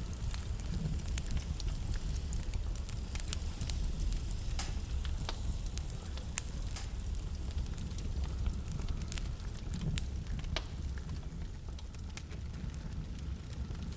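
Wood fire burning in a fireplace, crackling and popping in quick irregular snaps over a steady low rumble of the flames. The pops thin out near the end.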